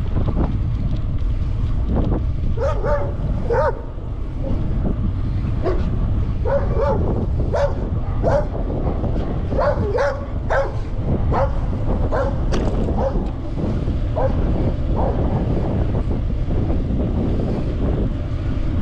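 A dog barking over and over, a string of sharp barks that starts a few seconds in and stops about three-quarters of the way through, over a steady rumble of wind on the microphone.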